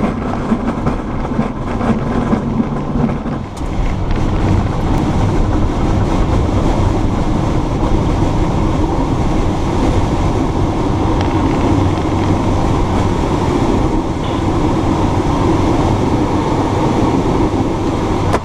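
Steady loud rumble and rush of air inside a glider cockpit in flight.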